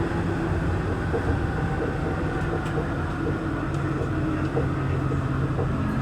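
Santiago Metro NS-16 train running between stations, heard from inside the car: a steady low rumble of the ride with a low hum from the traction motors.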